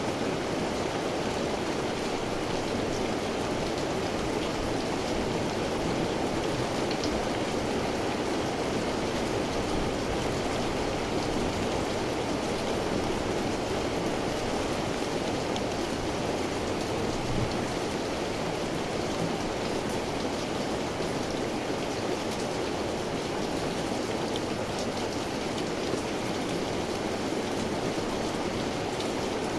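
Steady rain falling, an even hiss with scattered drop ticks on surfaces.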